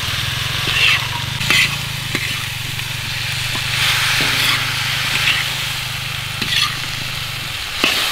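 Fish and diced vegetables sizzling in a large steel wok, with a spatula scraping and stirring against the pan about five times. A low steady drone runs underneath and stops near the end.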